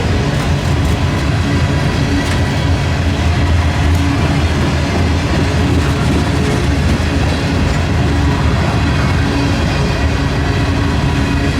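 Train running by with a steady rumble and a low, even hum.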